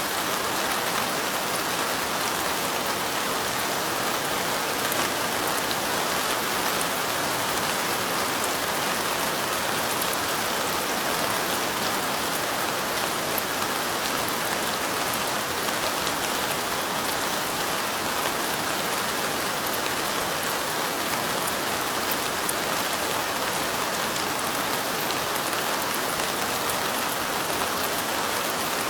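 Steady light rain: an even hiss of falling rain with faint, fine drop ticks scattered through it.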